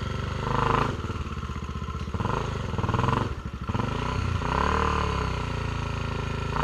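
Honda XR250 Tornado single-cylinder four-stroke trail bike climbing a hill, its engine revving up and easing off three or four times as the rider works the throttle.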